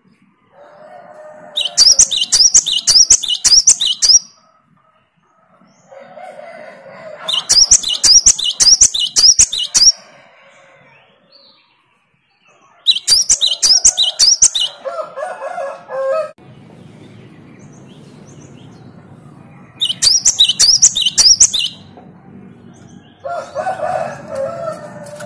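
Great tit (gelatik batu) singing loud bouts of rapidly repeated high, ringing notes, four bouts a few seconds apart. Softer, lower chattering runs between the bouts, and a low steady hum comes in about two-thirds of the way through.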